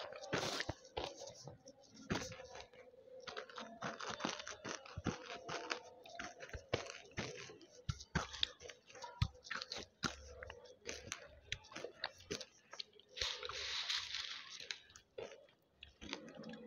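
Banslochan (tabasheer, the hard chalky lumps from bamboo) being crunched and chewed right at a headset microphone: a long irregular run of sharp crunches as the pieces break between the teeth, with a denser stretch of crunching about three-quarters in.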